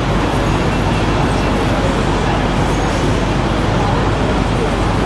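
Steady street traffic noise, a dense even rumble, with voices faintly in the background.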